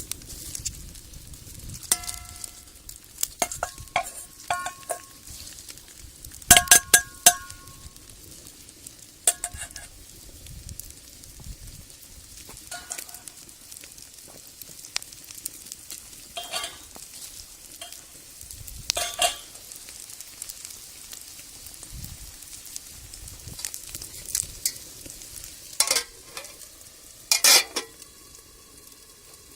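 Egg and ramen frying in an iron Peking wok, sizzling steadily, while a utensil stirs and knocks against the wok with short ringing clanks. The loudest clanks come about six to seven seconds in and again near the end.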